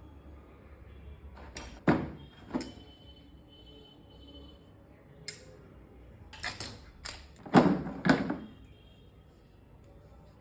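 A series of sharp clicks and knocks from hard plastic and metal pieces of a drill tool kit being handled and set down, the loudest pair a little after the middle.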